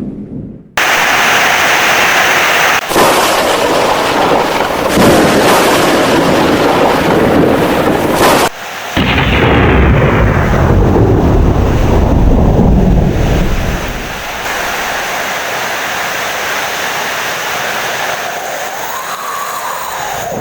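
Heavy rain with rolling thunder. After a brief drop-out at the start, the thunder rumbles on for about thirteen seconds with a short break near the middle, then fades, leaving steady rain.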